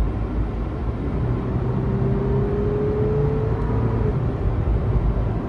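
Car driving at highway speed, heard from inside the cabin: a steady low rumble of road and engine noise. A faint whine rises slightly in pitch for about two seconds in the middle.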